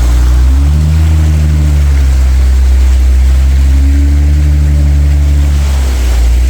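Off-road vehicle engine running under load, its pitch rising and falling as it revs, over a loud steady rush of noise.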